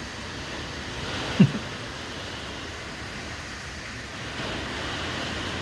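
Hurricane-force wind blowing as a steady rushing noise. About 1.4 s in, a short, loud sound drops sharply in pitch.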